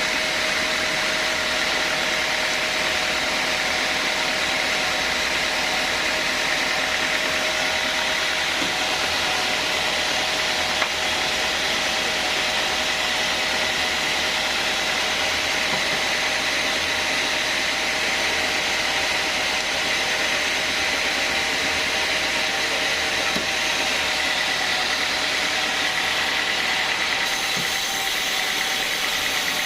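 Sawmill bandsaw running steadily, a constant machine noise with a steady high whine.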